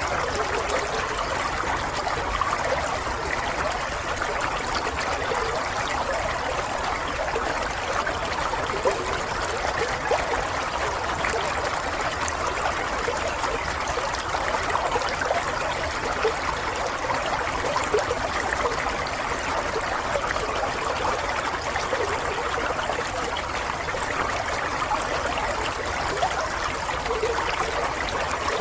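Running water, trickling steadily and evenly without a break.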